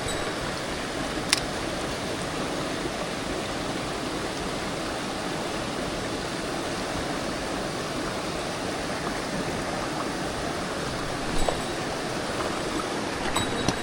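Mountain stream rushing steadily over rocks, with one sharp click about a second in and a few faint ticks near the end.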